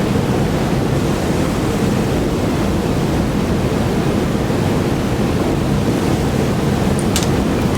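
Steady, even noise with a low rumble, like amplified microphone hiss, and one short sharp click about seven seconds in.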